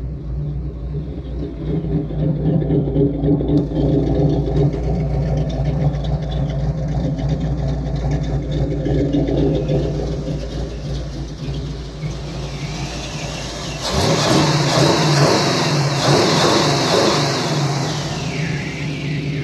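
V8 engine of a V8-swapped Jeep YJ running steadily just after a cold start. About fourteen seconds in, a louder rushing noise comes in over the engine for a few seconds, then eases.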